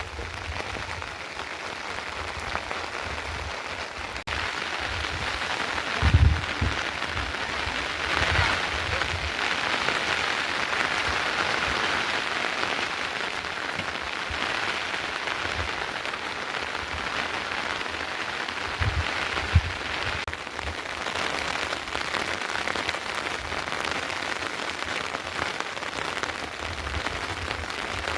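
Steady rain falling, an even hiss throughout, with a couple of short low thuds about six seconds in and again near twenty seconds.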